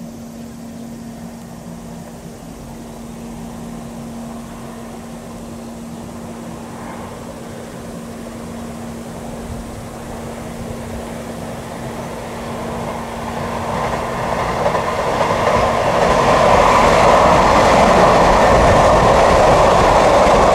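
Electric train running on rails, with a steady low hum through the first part. The wheel and rail noise swells much louder over the last several seconds, then cuts off abruptly.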